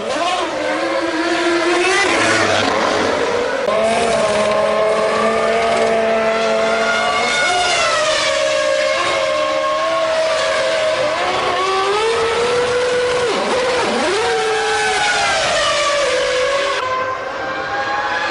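1999 Formula One car's 3-litre V10 engine running, its pitch rising and falling as it is revved, with a sharp dip and rise a bit past halfway.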